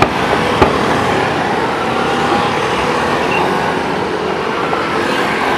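Steady crowd hubbub with two sharp firework bangs, one at the very start and one just over half a second later.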